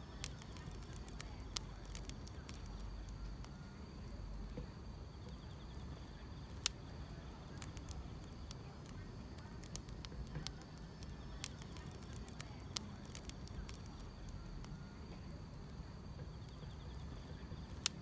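A wood fire crackling, with scattered sharp pops over a low steady rumble, and insects chirring steadily in the background.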